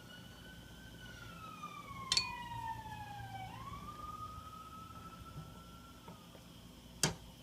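A faint siren wailing: one slow tone that slides down in pitch, swoops back up about three and a half seconds in, then holds and fades. Two sharp clinks, like a utensil against the pot, come in about two seconds in and near the end.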